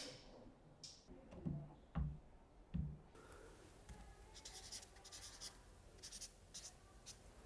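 Hand marking on a workpiece: a click and a few soft low knocks, then a run of short, faint scratching strokes, like writing with a pencil.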